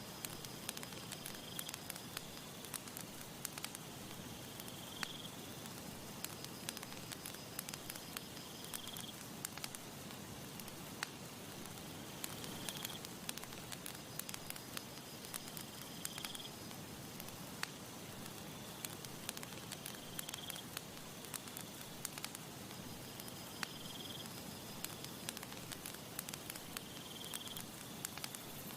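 Campfire crackling, with frequent sharp pops and snaps over a steady hiss. A short high chirp recurs about every three to four seconds.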